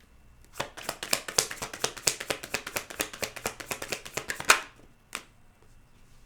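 A deck of tarot cards being shuffled by hand: a quick, even run of sharp card slaps, about seven a second, for about four seconds. It ends in one louder knock, and a single lighter tap follows half a second later.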